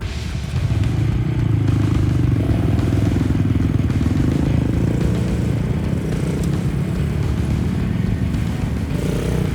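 Small single-cylinder Honda Monkey motorcycle engines running with a steady, fast-pulsing rumble, which gets louder about half a second in.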